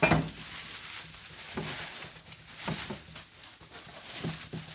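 Plastic packaging, bubble wrap among it, rustling and crinkling as parts are unwrapped and handled, with a few light knocks.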